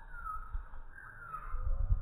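Birds calling: two short calls, each falling in pitch, about a second apart. A low rumble swells under them near the end.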